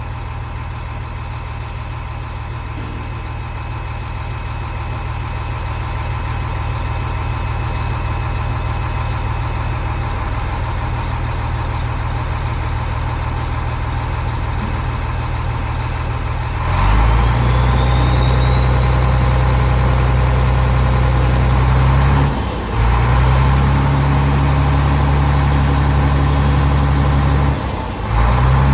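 Used Shacman tipper truck's 380 hp diesel engine idling steadily. About two-thirds of the way in it steps up to a louder, heavier running sound with a thin rising whine, and it briefly dips twice near the end.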